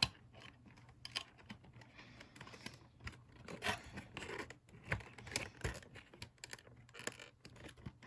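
Cardboard model box being handled and its end flap opened, with scattered scrapes, rubs and small clicks.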